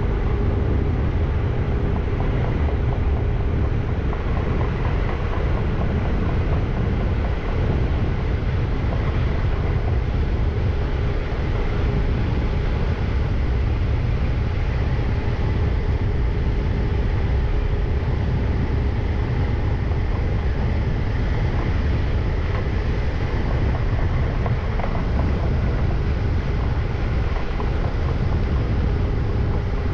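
Steady running noise of a freight train hauled by a Siemens Vectron electric locomotive, heard from the cab: a continuous low rumble of wheels on rail, with a faint steady whine over it.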